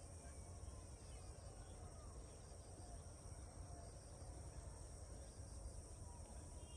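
Faint, steady high-pitched insect chorus over a low rumble.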